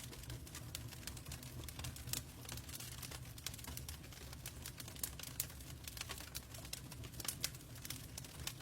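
Log fire crackling: irregular sharp pops and snaps of burning wood, several a second, over a low steady rumble.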